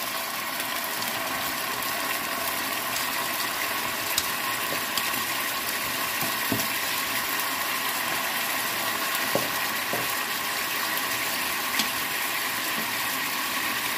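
Chicken supremes frying in hot sesame oil in a pan: a steady sizzle with a few scattered crackles.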